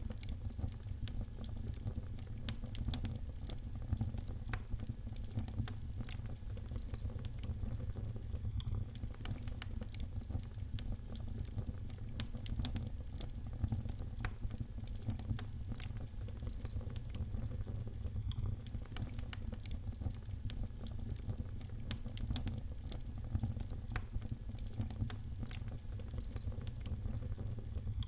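Wood fire crackling, with frequent small sharp pops and snaps over a steady low rumble of burning.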